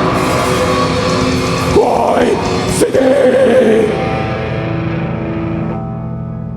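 A rock band playing live, with gliding bent notes in the first few seconds; from about four seconds in the high end thins out and a held chord fades away.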